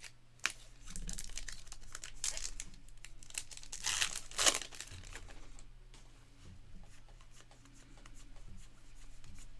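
A pack of 2024 Topps Heritage baseball cards being torn open by hand, the wrapper crinkling in a run of sharp crackles that are loudest around the middle, then fainter rustling.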